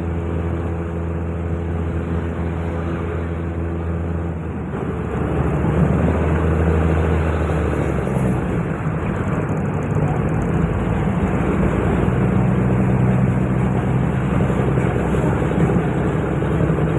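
Diesel railcar engine running steadily, its note changing and growing louder about four and a half seconds in, and shifting again about eight seconds in.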